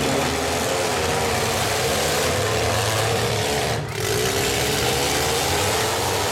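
Engines of several compact demolition-derby cars running and revving together, their pitch wavering up and down, with the sound briefly dropping out about four seconds in.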